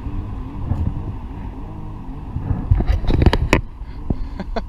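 An engine running with a steady low rumble whose pitch wavers. About three seconds in comes a cluster of sharp knocks.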